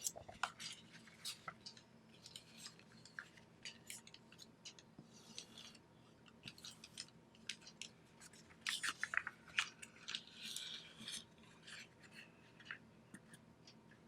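A sheet of origami paper being folded and creased by hand: scattered crisp crinkles and clicks, with brief rustles as the paper slides, the loudest cluster about nine to eleven seconds in.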